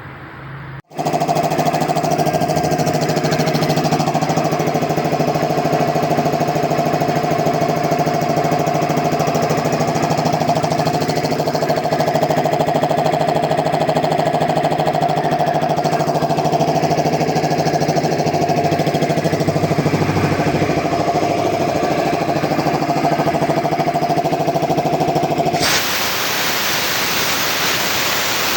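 10 hp piston air compressor with a Puma compressor head running steadily under power, starting about a second in after a brief dropout. Near the end the machine's running note stops and a steady rushing hiss carries on.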